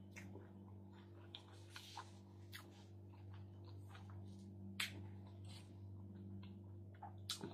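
Quiet close-up eating sounds: a mouthful of salad being chewed, with scattered short wet mouth clicks and smacks, over a steady low hum.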